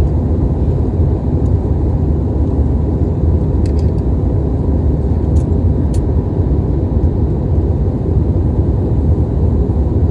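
Steady low rumble of an airliner cabin in flight, with a few faint clicks around the middle.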